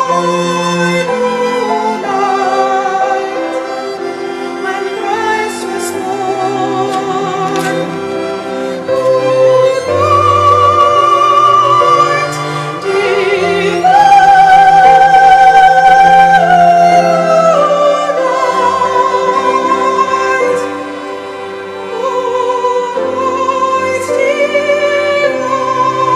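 Music: a voice singing in a classical style with vibrato over instrumental accompaniment, loudest on a long high note about fourteen seconds in.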